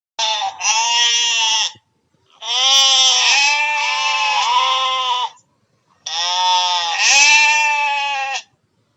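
Three long, wavering bleats from a farm animal, the middle one the longest. Each one cuts off abruptly into silence.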